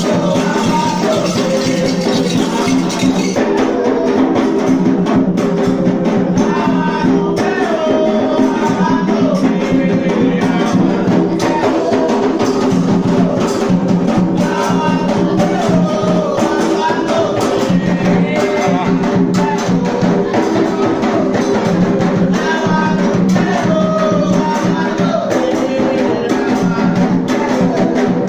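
Singing of a devotional chant for Xangô over hand percussion, drums and shakers keeping a steady rhythm.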